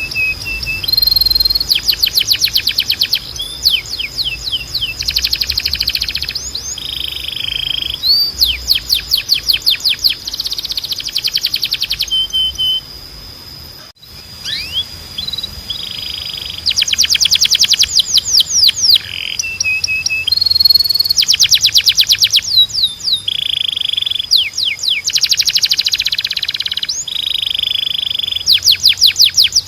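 Domestic canary singing a continuous song of rapid trills and short whistled notes, with a brief pause about halfway through.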